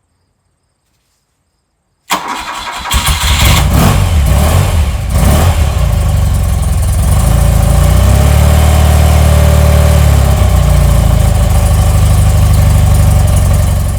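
1978 BMW R100S's air-cooled flat-twin boxer engine cold-started on full choke. About two seconds in, it cranks and catches, runs unevenly for a few seconds, then settles into steady, loud running.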